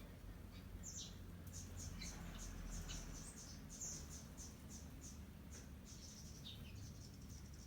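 Wild sparrows chirping while feeding on rice, a loose string of short, high chirps several times a second.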